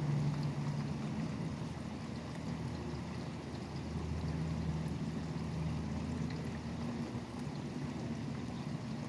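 Steady rain falling, with traffic on a highway: a low vehicle hum swells at the start and again about four to six seconds in.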